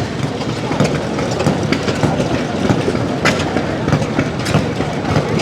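Old engine running steadily, with repeated clacking over a low hum.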